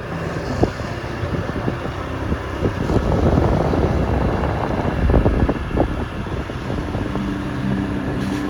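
A road vehicle on the move, with wind rushing over the microphone. A steady engine note comes in about seven seconds in.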